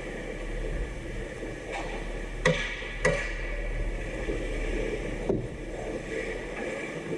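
Ice hockey play in a rink: two sharp knocks about half a second apart, typical of a stick hitting the puck or the puck hitting the boards, with a few fainter clacks, over a steady low rink hum.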